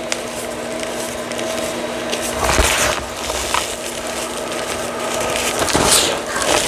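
Reformed gym chalk being crushed, with gritty crunching that swells twice, midway and near the end, over a steady background hum.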